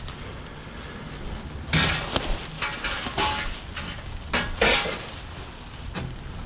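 Metal parts and tools clanking and clinking: a handful of sharp knocks between about two and five seconds in, one of them ringing briefly.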